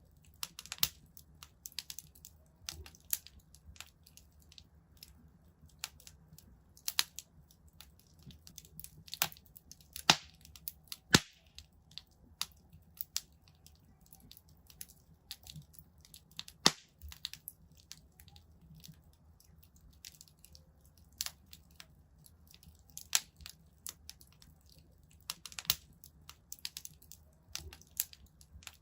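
Wood fire crackling in a fireplace: irregular sharp pops and snaps, with a few much louder cracks scattered through, over a faint low steady hum.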